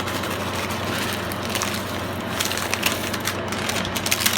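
Small clicks and crunches of mini M&Ms and crispy rice cereal as candy is sprinkled over the treat mixture and pressed into the pan, more frequent in the second half, over a steady low hum.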